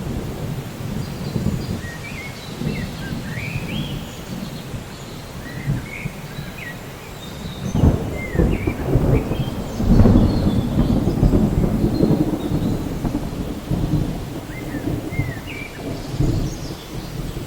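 Rain with rolling thunder rumbling underneath, swelling loudest about eight and ten seconds in, while birds chirp with short calls that glide up and down in pitch.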